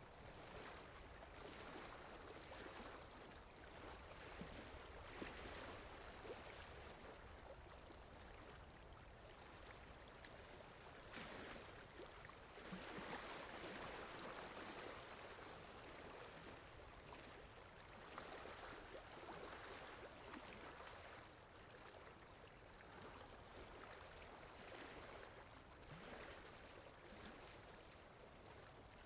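Soft, steady rainfall, a faint even hiss that swells louder a couple of times, with a few faint drips.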